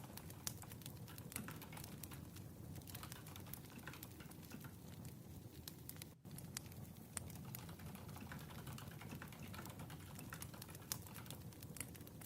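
Wood fire crackling quietly: irregular sharp pops and snaps over a low steady rumble, with a brief drop in the sound about six seconds in.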